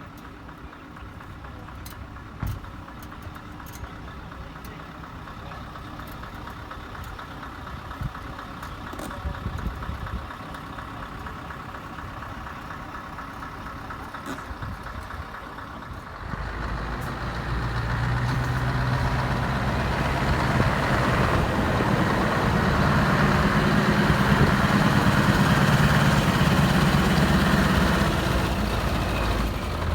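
Heavy truck diesel engine running. About halfway through it becomes much louder and then holds a steady, loud low drone, as a truck runs close by.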